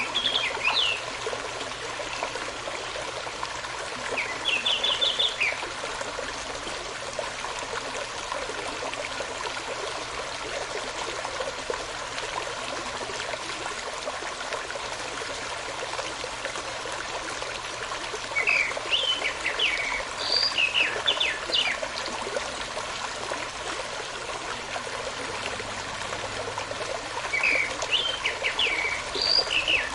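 Stream water trickling and running steadily, with a songbird singing short phrases of quick, high notes: once near the start, again around four seconds in, and in longer bursts in the second half.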